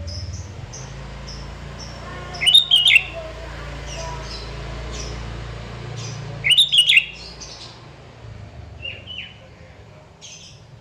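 Sooty-headed bulbul singing in lively bursts: two loud runs of quick chirped phrases about two and a half and six and a half seconds in, with short high chirps repeating in between, over a steady low hum.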